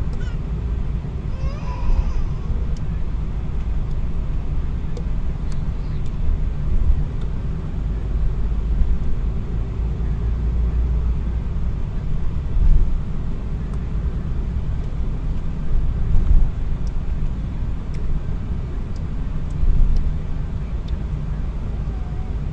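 A car driving along a road: a steady, loud low rumble of engine and road noise that swells briefly now and then.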